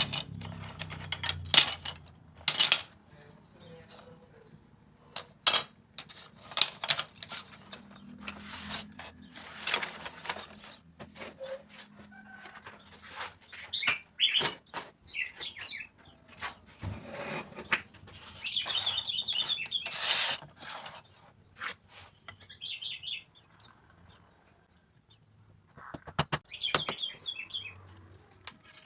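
Small birds chirping and trilling now and then, over scattered sharp taps, clicks and knocks of hand work on bamboo.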